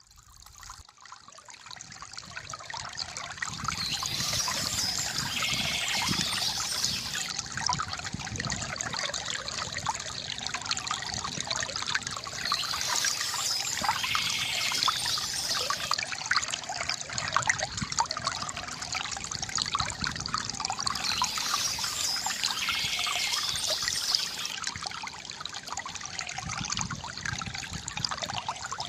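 River water trickling and gurgling steadily, fading up from near silence over the first few seconds.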